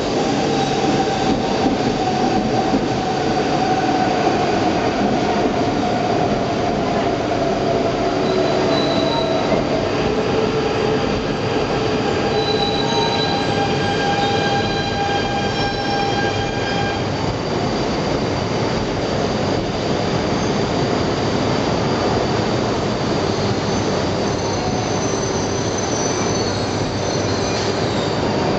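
Coupled E4-series double-deck and E3-series Shinkansen train rolling slowly in to stop, a steady rumble of wheels on rail. Over it run several thin, high brake-squeal tones that drift slightly down in pitch and stop a little past halfway.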